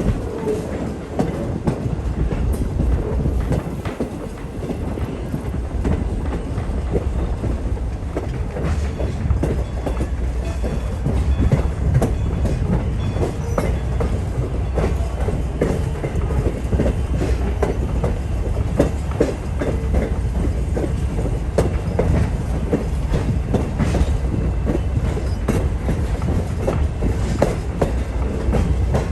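A passenger train coach rolling along the track: a steady low rumble with wheels clicking over the rails, heard from aboard the train.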